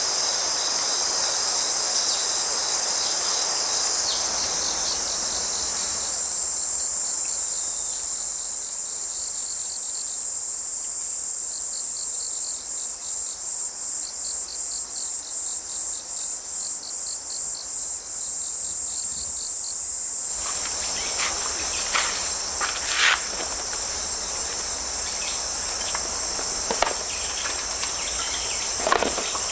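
Autumn crickets and other night insects singing in a steady, high chorus. For a few seconds in the middle a nearer one chirps in an even pulse of about three a second. A rushing stream is heard at the start and again in the second half, with a few sharp clicks near the end.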